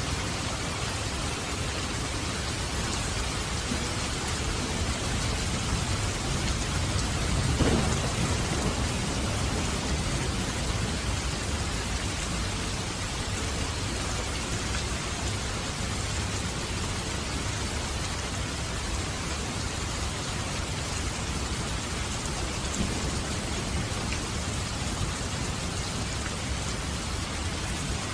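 Steady rain falling, with a low roll of thunder that swells to a peak about eight seconds in and then fades back under the rain.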